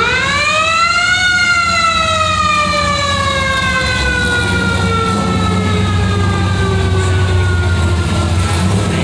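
A siren winds up quickly to its top pitch in about a second, then slowly falls in pitch as it winds down, still sounding at the end. Engines idle underneath.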